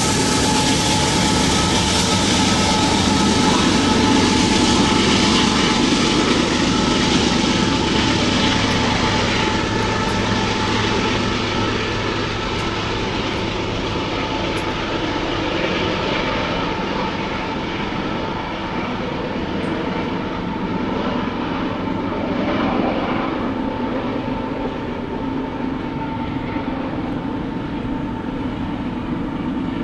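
CSX empty unit coal train rolling past, with a steady clatter of wheels on rail and a thin ringing tone from the wheels and rails. The sound eases off slightly over the stretch.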